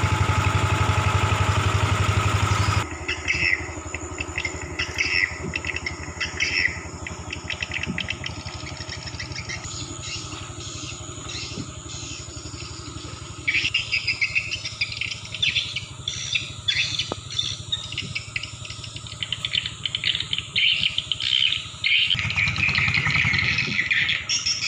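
A small engine runs loudly for about three seconds, then drops abruptly to a faint hum. After that, dense high-pitched chirping from night animals takes over, growing louder about halfway through.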